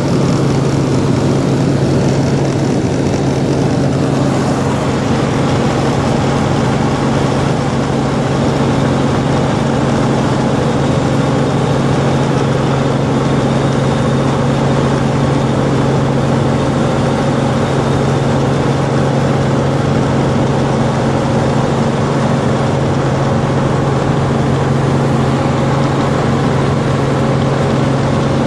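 Helicopter in flight: a loud, steady drone of engine and rotor with a strong low hum that does not change.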